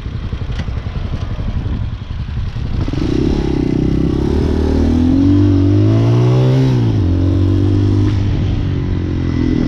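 Hawk 250 dual-sport motorcycle's single-cylinder engine under way. It starts as a low rumble, rises in pitch as it accelerates from about three seconds in, drops suddenly near seven seconds, then runs steady.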